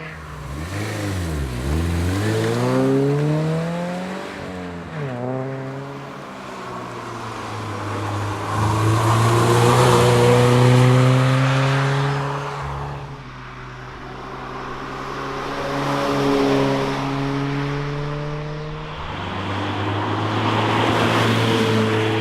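Toyota 86's 2.0-litre flat-four engine being driven hard. The revs drop sharply about a second in, then climb in a series of rising pulls through the gears and hold high and steady. They fall away about 13 seconds in as the throttle lifts, and build again near the end.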